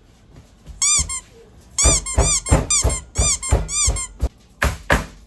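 A quick run of about ten short, high-pitched squeaks, each rising and falling in pitch. A couple of sharp knocks follow near the end.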